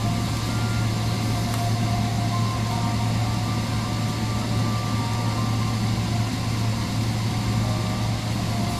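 Steady vehicle cabin noise: a constant low hum under an even rush of noise, with no sudden sounds.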